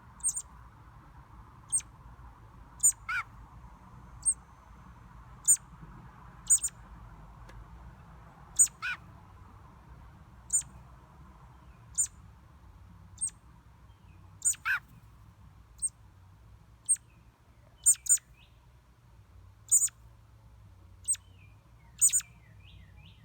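A small bird chirping: short, sharp, high-pitched chirps, some given in quick pairs and some dropping in pitch, repeated roughly once a second.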